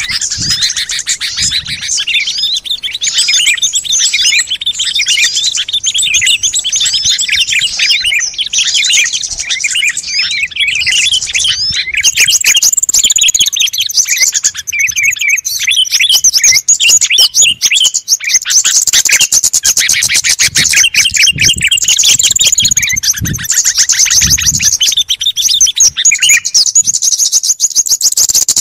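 Loud, dense chorus of many small songbirds chirping and twittering at once, a bird-lure (pikat) recording meant to draw small wild birds in. The mix grows louder and higher-pitched about twelve seconds in.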